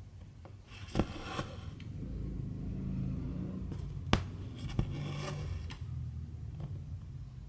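Cross-stitch work: silk embroidery thread drawn through the fabric with a scraping hiss, twice, and a few sharp clicks from the needle and hoop, over a low steady hum.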